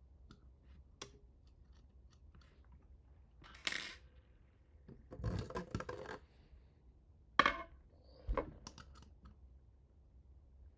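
Small hard parts and hardware being handled during assembly, with light clinks like a coin dropping. Scattered clicks, a clattering stretch in the middle, then two sharp knocks, the first the loudest.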